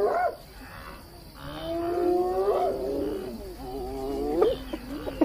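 Spotted hyena giving its long rising whoop calls, three whoops each gliding upward to a sharp lift at the end, a rallying call to its clan.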